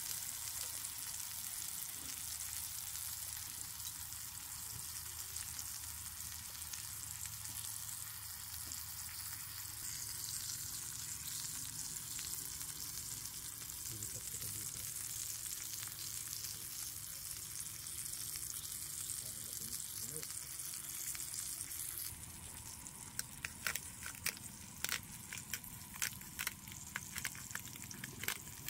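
Chicken frying in hot oil in a cast-iron skillet: a steady sizzle. About three-quarters of the way through the sizzle drops quieter and many sharp pops and crackles come in.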